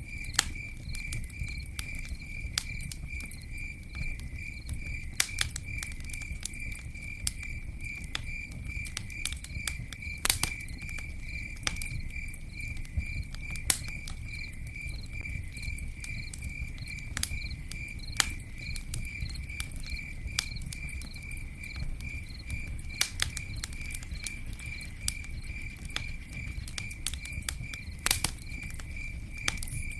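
Campfire burning, with scattered sharp crackles and pops and a low rumble, over the steady, evenly pulsing chirp of a cricket.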